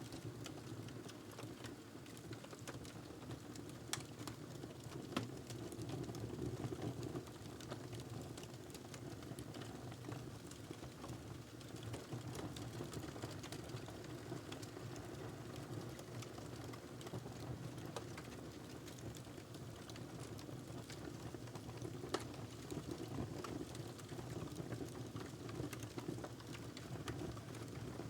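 Wood fire burning in a fireplace: a steady low rush of flames with scattered small crackles and pops, and a few sharper pops, one about four seconds in and another a little after twenty seconds.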